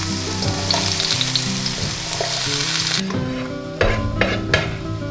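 Chopped red onion sizzling as it fries in a hot non-stick frying pan while being stirred. The sizzle cuts off sharply about three seconds in, followed by a few knocks and scrapes as the pan is tipped out into a slow cooker.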